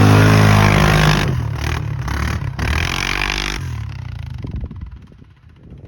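ATV engine revving hard, easing off about a second in, revving again around three seconds, then fading away to a low rumble.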